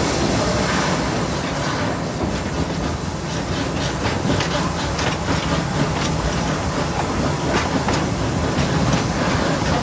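Steam-hauled amusement park train running, its wheels clattering over the rails in a steady rumble with repeated light clicks.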